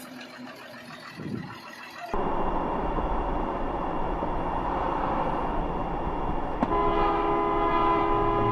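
A steady rumble, then near the end a train horn sounds a held chord of several notes over it.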